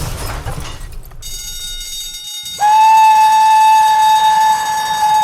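Falling rubble from a collapsed brick chimney crashing and settling, dying away within the first second. About two and a half seconds in, a long, steady, high whistle blast starts and holds.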